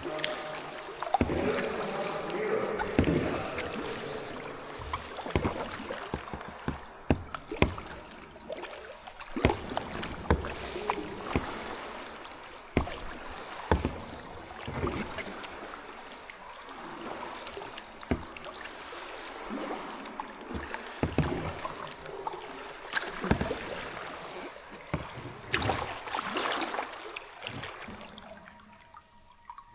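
Kayak paddling: paddle blades dipping and splashing in the water, with many sharp knocks scattered throughout.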